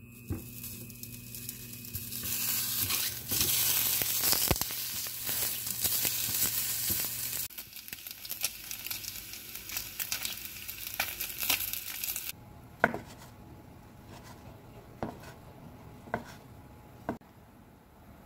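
Slices of Spam sizzling as they fry in a square egg-roll pan, the sizzle building over the first few seconds and cutting off suddenly about twelve seconds in. After that, a few light knocks as pieces of rolled omelette are set onto a ceramic plate.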